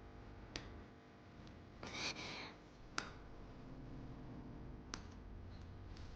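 Quiet room tone with a low hum, broken by a few isolated sharp clicks and a brief rustle about two seconds in.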